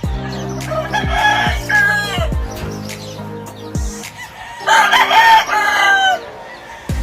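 Rooster crowing twice, each crow a run of stepped notes ending in a drawn-out falling tail, over background music with a steady bass line and a beat.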